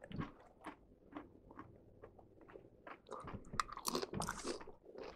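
Close-up chewing and crunching of tortilla chips loaded with chili: irregular crisp crunches, busier in the second half.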